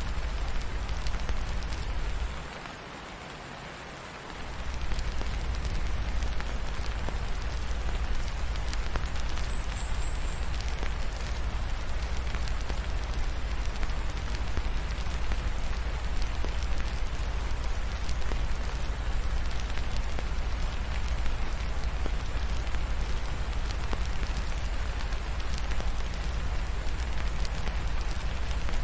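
Steady rain mixed with a crackling fireplace: an even hiss of rain with scattered small clicks and a deep low rumble underneath. The low rumble drops out for about two seconds a couple of seconds in, then returns.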